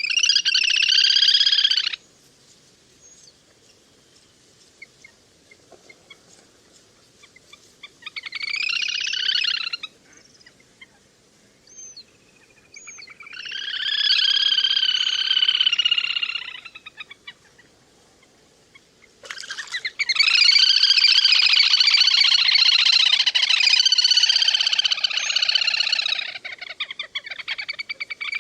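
Little grebe (le hôi) giving its rapid whinnying trill in repeated bouts: a two-second trill at the start, another around eight seconds, a longer one around fourteen seconds, and a long run of trilling from about nineteen seconds on.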